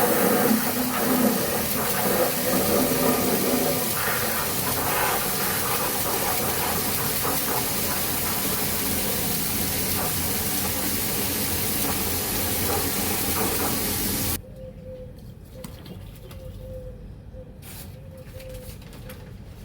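Water running and pouring in a steady, loud hiss, cutting off suddenly about fourteen seconds in; after that only quieter faint clicks and a faint hum remain.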